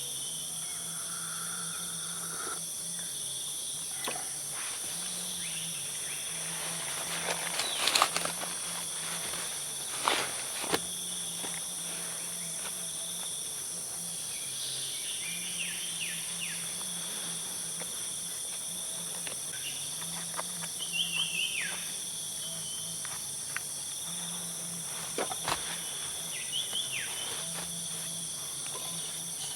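Tropical forest at night: a steady, high-pitched insect chorus, under which a low droning call pulses on and off. Several sharp clicks and crackles break through, the loudest about 8 and 10 seconds in, with a few short falling chirps near the end.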